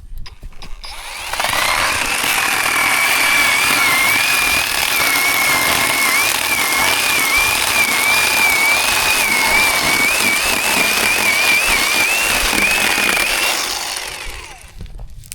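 Zhipu 48V cordless electric chainsaw running for about twelve seconds, with a high whine that wavers up and down in pitch throughout. It starts about a second in and stops near the end.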